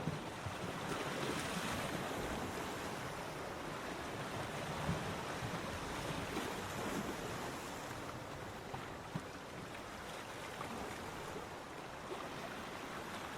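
Ocean surf washing onto a beach: a steady rush of breaking waves that swells in the first couple of seconds and slowly eases.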